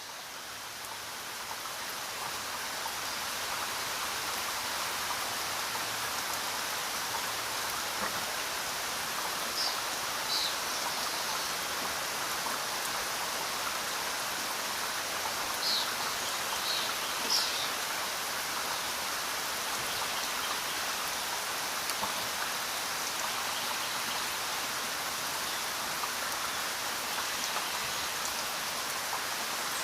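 Steady rainfall, fading in over the first few seconds and then holding even. A few brief high-pitched chirps stand out about ten seconds in and again around sixteen to seventeen seconds.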